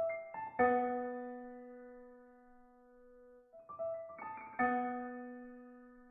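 Background piano music: a few quick notes, then a low note held and slowly fading, twice.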